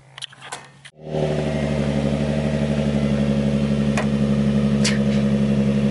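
A car engine idling steadily. It comes in abruptly about a second in, with a light, even pulsing, and two faint clicks are heard over it.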